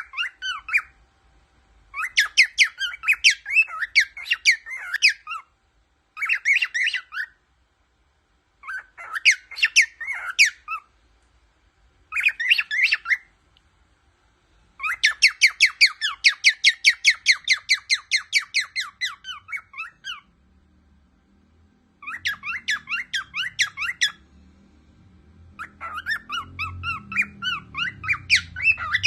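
Cockatiel singing in bouts of rapid warbled whistles and chirps with short pauses between them, including one long run of quickly repeated notes in the middle. A faint low rumble comes in underneath near the end.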